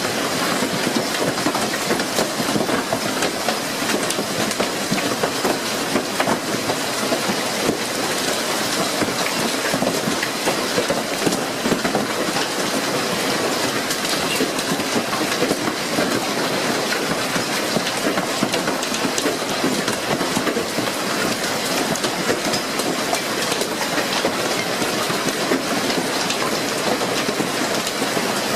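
Heavy hail pelting down: a dense, unbroken clatter of countless hailstones striking hard surfaces, with a steady hiss beneath. The hailstones are golf-ball sized.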